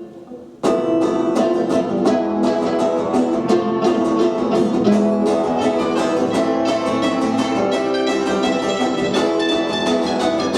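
A punk band playing live, with guitar prominent; the music starts abruptly about half a second in and keeps going at a steady loud level.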